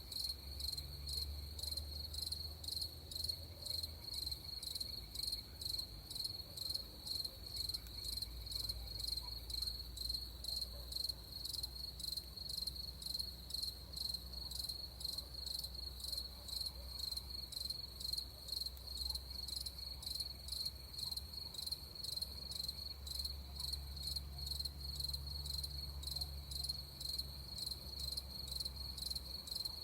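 Crickets chirping in a steady, even pulsing rhythm, with a low rumble underneath.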